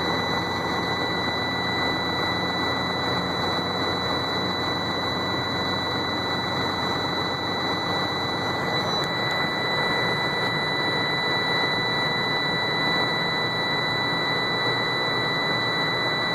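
Sterling roll-off truck's diesel engine idling just after a cold start, with the cab's warning buzzer sounding one steady high tone over it. The buzzer stops near the end as the override is engaged.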